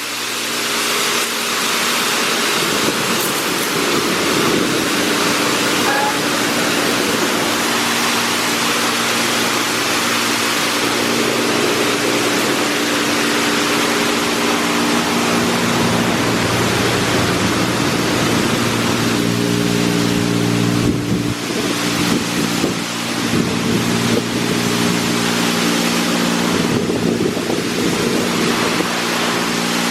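Mark VII AquaJet XT touchless car wash spraying high-pressure water jets onto a car, a continuous loud hiss over a steady machine hum. The spray briefly lets up twice in the second half.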